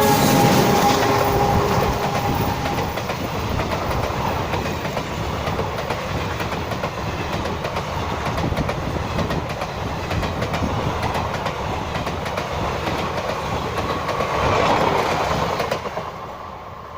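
Diesel-hauled passenger train, a WDM3A locomotive at its head, passing close by: the horn's last note drops in pitch as the locomotive goes past, then the coaches roll by with a steady rumble and clickety-clack of wheels over the rail joints. A brief falling tone comes a couple of seconds before the end, and the sound fades away as the train recedes.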